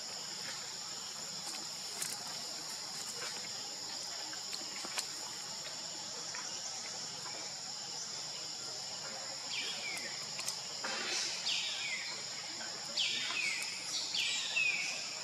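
Insects droning steadily at a high pitch. From about ten seconds in, a string of short high calls, each falling in pitch, repeats roughly once a second.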